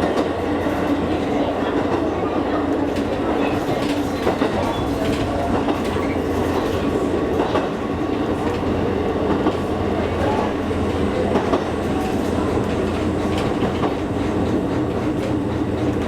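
Electric train running along the line, heard from inside the carriage: a steady running rumble and hum with occasional clicks of the wheels over the rail joints.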